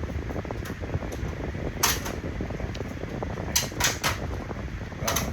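A few sharp clicks and knocks, one about two seconds in, three in quick succession around four seconds in and one near the end, over a steady fan-like hum.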